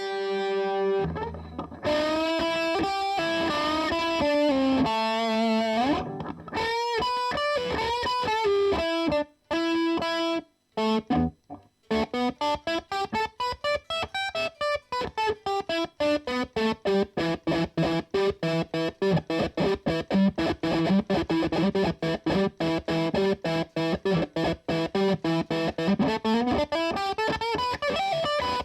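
Electric guitar played through an overdrive/distortion pedal: bent and sliding notes in the first few seconds, a couple of short breaks, then a long run of fast picked notes climbing up and back down in pitch.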